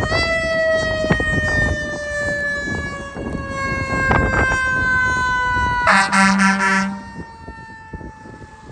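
Fire engine siren wailing, its pitch falling slowly and steadily, with a loud horn blast lasting about a second near six seconds in.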